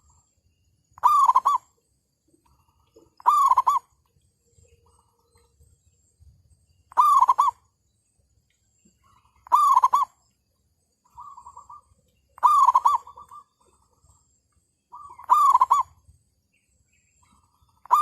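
Zebra doves cooing: a short rolling coo repeats about every two to three seconds, with fainter coos in between.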